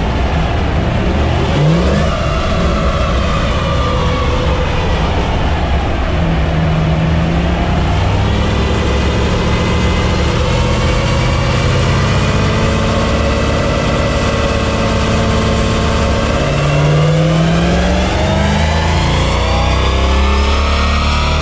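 Jaguar S-Type R's supercharged 4.2-litre V8 running under load on a rolling-road dyno. The engine note falls over the first several seconds, holds steady, then climbs as the revs rise toward the end.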